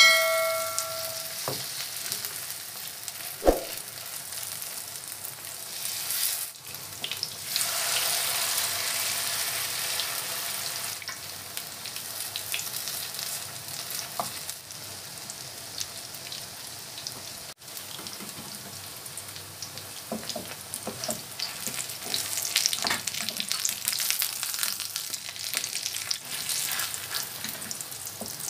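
Sardine-and-egg omelette patties frying in shallow oil in a nonstick pan: a steady hissing sizzle, with occasional scrapes and taps of spatulas against the pan as the patties are pressed and turned. A brief ringing tone sounds right at the start.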